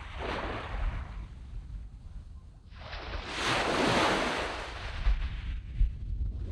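Waves breaking and washing up a sand beach. A small wash comes at the start, then a bigger wave surges in about three seconds in, swells and fades away over about two seconds.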